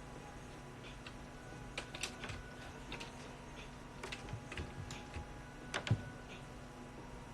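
Irregular, scattered clicks of typing on a computer keyboard, over a faint steady hum.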